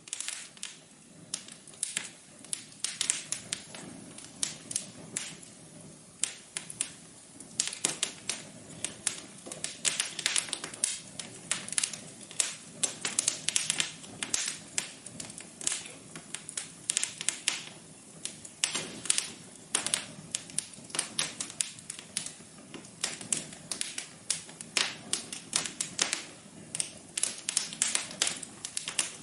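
Wood fire in a fireplace crackling, with dense, irregular sharp pops and snaps several times a second over a low, steady rumble of the flames.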